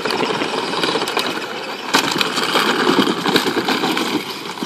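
Power Wheels Jeep Hurricane ride-on toy driving, its battery-powered drive motors and plastic gearboxes running with a rattly grinding, with a knock about two seconds in.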